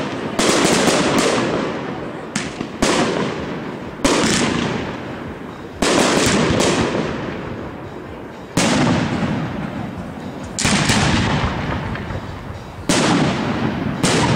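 Aerial firework shells bursting overhead, a sharp bang every second or two, some in quick pairs. Each bang is followed by a long rolling rumble of echo that dies away before the next.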